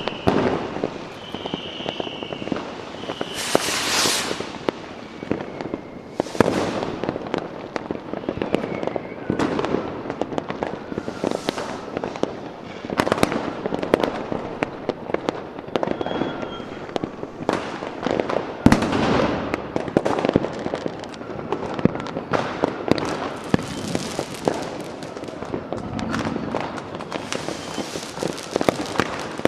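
Fireworks going off continuously: many overlapping bangs and crackles, with several hissing bursts, the biggest about four seconds in. A faint high whistle is heard at the start.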